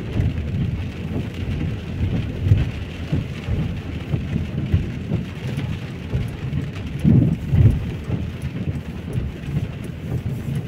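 Heavy rain falling steadily, with an uneven low rumble underneath that swells briefly around seven seconds in.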